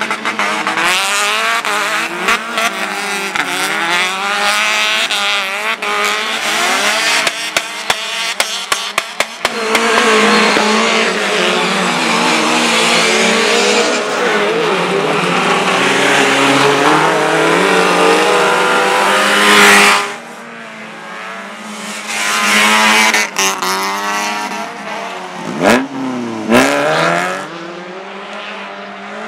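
Race car engines revving hard, rising and falling in pitch as they accelerate and shift, with tyre squeal. A rapid run of sharp clicks comes at about 7 to 9 seconds. The sound drops abruptly about two-thirds through, then a couple of sharp knocks follow near the end.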